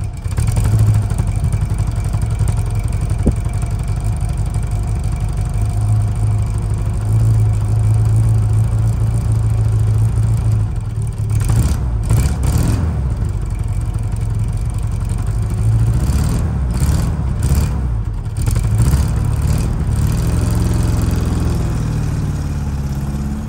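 1961 Mercedes-Benz 190SL's 1.9-litre four-cylinder engine running as the car is driven, a low steady drone whose pitch shifts and climbs in the second half. A few sharp clicks come in the middle.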